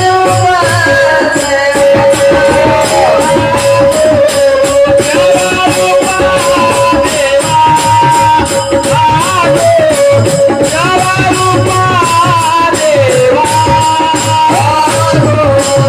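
Marathi devotional panchapadi sung by a man in a high voice, with a steady held note underneath and jingling percussion keeping a fast rhythm.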